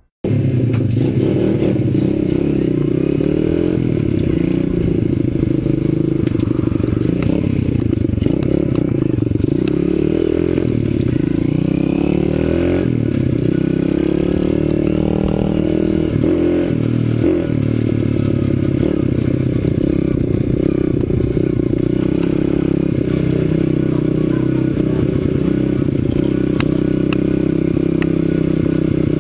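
2008 CRZ 125 Pro pit bike's single-cylinder four-stroke engine being ridden, its note rising and falling as the throttle is opened and closed, with rattles and scrapes from the bike.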